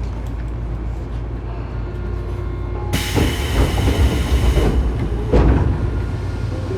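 Tobu 9000 series electric train car rumbling at low speed, heard from inside the car. About three seconds in, a hiss starts suddenly and cuts off under two seconds later, and a single knock follows about a second after that.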